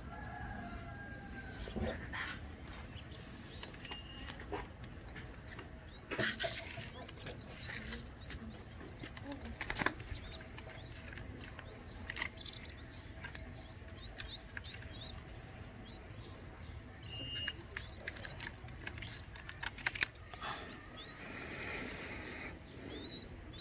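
Young zebra dove flapping its wings in several short, sharp bursts, with repeated short, high, rising bird chirps throughout.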